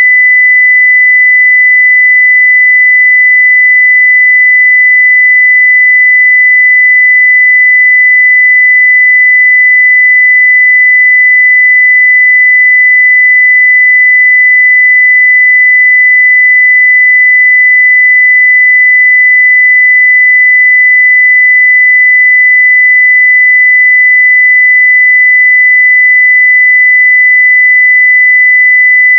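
A 2 kHz sine-wave test tone at full level, one pure steady pitch without change.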